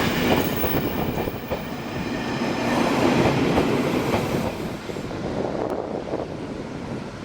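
Passenger train running past, its wheels clattering over the rail joints in a dense, irregular stream of clicks over a loud rumble. The sound thins and drops away over the last couple of seconds as the train moves off.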